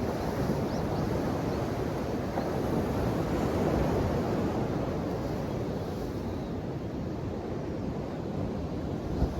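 Ocean waves breaking and washing on the shore: a steady rushing surf that swells a few seconds in and then eases off, with a short low thump near the end.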